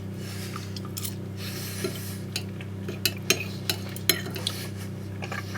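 Cutlery tapping and clinking lightly on a plate, about a dozen scattered clicks, over a steady low hum.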